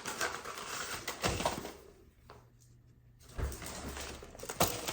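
Mail and papers being handled: rustling for about two seconds, a short pause, then a few knocks and a sharp click near the end.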